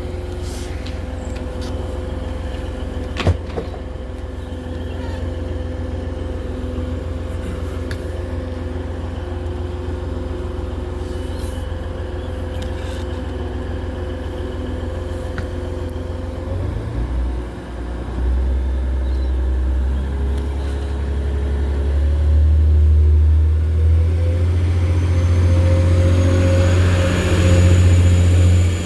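Passenger train running, heard from inside: a steady low rumble and hum with a sharp click about three seconds in. From just past halfway the rumble grows louder, and near the end a faint high whine rises as the train picks up speed.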